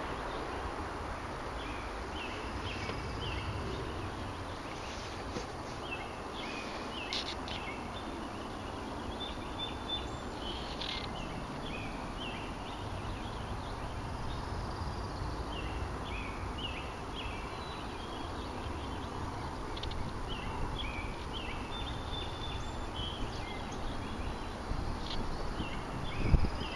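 Small birds chirping: many short, high calls repeated in clusters, over a steady low rumble of wind. Near the end comes a low thump.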